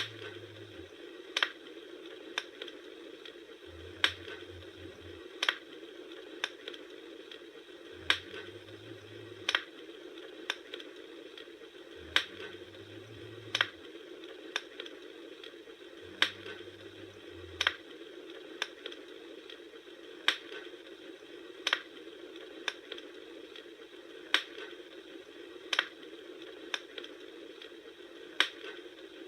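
Bonfire crackling: sharp pops of the burning wood at an even pace, roughly one every second and a half, over a steady low rush of the flames. A short low hum comes and goes about every four seconds.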